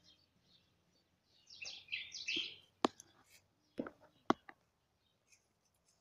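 A bird chirping in a quick run of short, high calls about a second and a half in, followed by a few sharp clicks.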